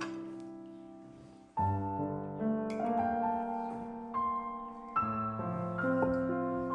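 Soft background piano music: slow sustained chords, a new chord struck about a second and a half in and again about five seconds in, each fading away.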